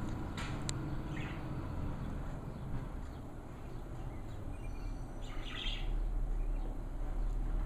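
Low rumble of a garbage truck's engine, swelling a little near the end, with a few short bird chirps over it.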